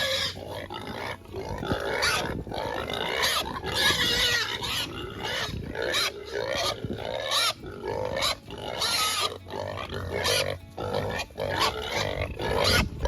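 A group of pigs squealing and grunting over and over, jostling at feeding time.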